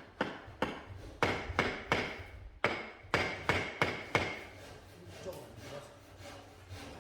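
A hammer striking repeatedly, about ten blows in the first four seconds, some with a faint ringing tone, then it stops.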